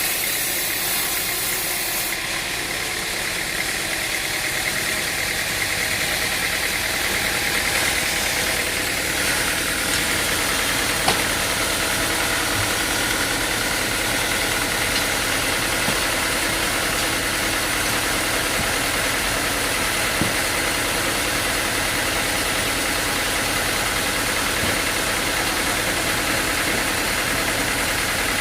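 An engine running steadily, with a couple of faint knocks partway through.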